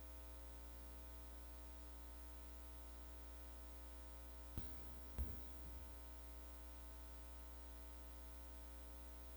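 Low steady electrical hum from an open microphone line, broken about halfway through by two short knocks, the second louder, with a brief rattle after it.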